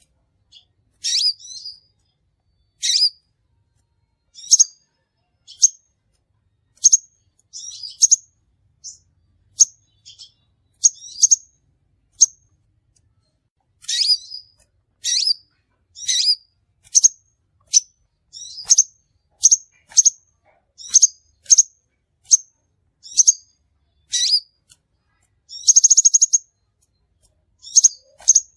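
Crimson sunbird calling: a run of short, high, sharp chirps, about one or two a second, with a short pause partway through and a brief buzzy trill near the end.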